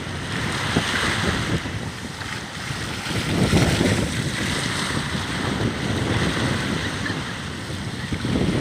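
Strong wind buffeting the microphone over surf washing onto the beach, with a louder swell of wave noise partway through.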